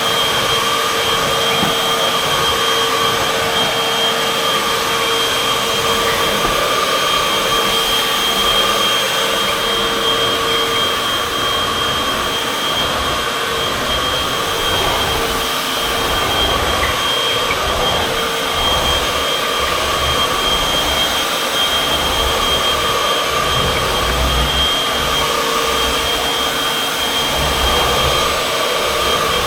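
Upright vacuum cleaner, model UH70605, running continuously as it is pushed over the floor: a steady motor whine with a shifting low rumble from the cleaning head.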